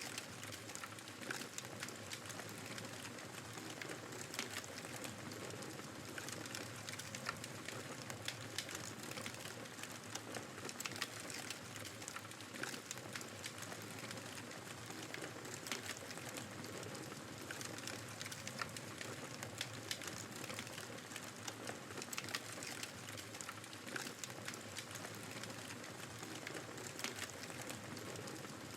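Wood fire crackling in a fireplace, with irregular sharp pops and snaps over a steady hiss of blizzard wind.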